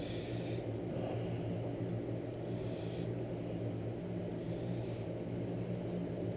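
A steady low hum with two unchanging low pitches, with faint soft scraping and rustling from handling small parts every second or two.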